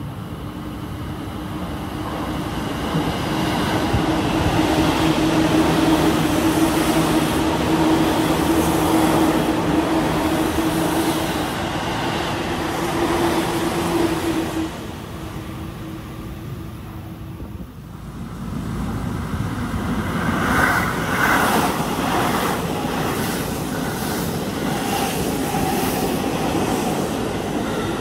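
A yellow Seibu commuter train passing through the station at speed, a steady rumble and hum of wheels and motors. It stops short about 18 seconds in and is followed by a Seibu 001 series Laview limited express approaching, its wheels knocking repeatedly on the rails.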